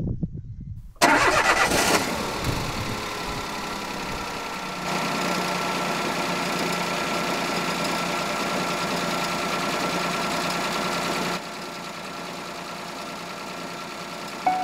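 A few soft crunches, then a car engine cranking and starting about a second in and settling into a steady idle. The idle gets louder about five seconds in and drops back near the end.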